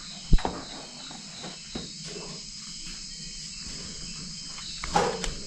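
Crickets chirping steadily in a continuous high-pitched chorus. Sharp knocks break in about a third of a second in and again near the end; the first is the loudest.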